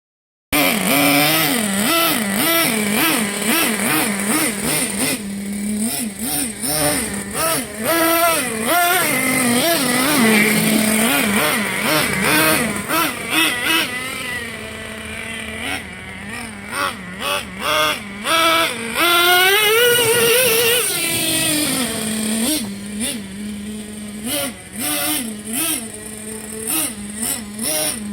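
Traxxas T-Maxx 3.3 nitro RC truck's small two-stroke glow engine revving in quick repeated throttle blips, the pitch jumping up and dropping back to a steady idle over and over, with one longer rise and fall about twenty seconds in, as its tuning is checked.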